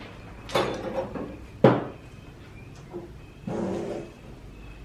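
Decor pieces being handled and set down: a few sharp knocks, the loudest about one and a half seconds in, then a short scraping slide about three and a half seconds in.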